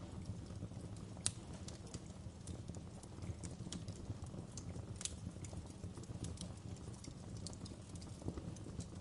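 Wood fire crackling in a fireplace: irregular sharp pops and snaps, a few a second, the loudest about a second in, over a steady low rumble of burning logs.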